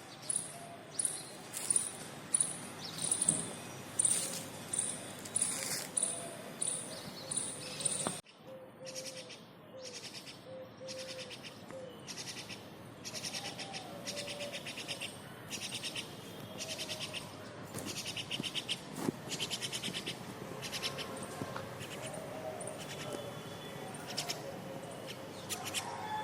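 Myna birds calling: a run of high, evenly repeated notes about two a second, then, after an abrupt change about eight seconds in, rapid harsh chattering calls.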